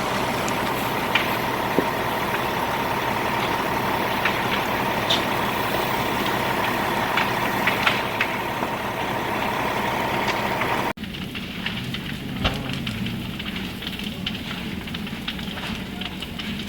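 Structure fire crackling with scattered sharp pops over the steady running of a truck engine. About eleven seconds in the sound cuts abruptly to quieter crackling and pops over a low hum.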